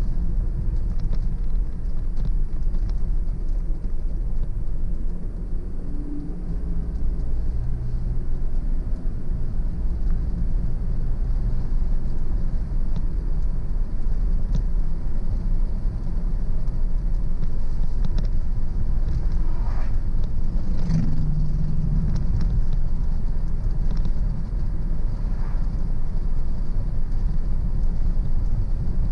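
Car driving at steady speed: a constant low rumble of engine and road noise.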